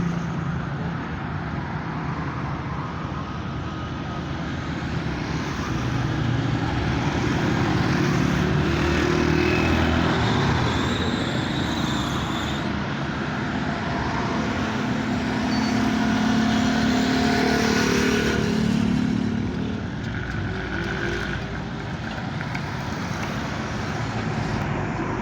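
Large truck engine running and moving, its pitch rising and falling, over road traffic noise.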